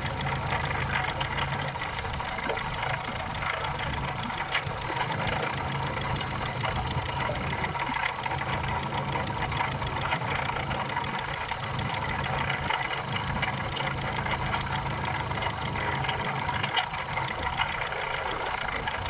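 Car engine idling steadily with an extraneous noise in the motor: a rapid fine ticking or knocking over the running, whose cause the owner is asking about.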